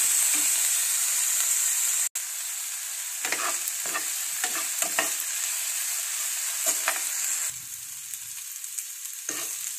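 Bitter gourd, potato and onion sizzling in mustard oil in a frying pan over a medium flame, while a steel spoon scrapes against the pan as the vegetables are stirred. The scrapes come in short strokes from about three seconds in.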